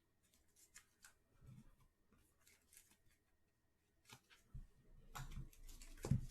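Faint scattered clicks and rustles of trading cards being handled and sorted, growing louder with a few soft knocks in the last two seconds.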